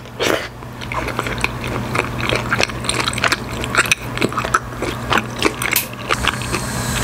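Close-miked chewing of soft Korean rice cakes (tteokbokki): a steady run of small wet mouth clicks over a low steady hum.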